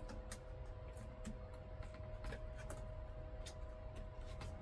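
Faint, irregular light clicks and handling noises from hand work on an RV air-conditioner duct, over a steady low electrical hum.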